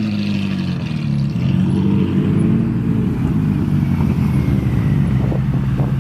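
Car engine idling steadily, a low note with a fast uneven pulse running through it.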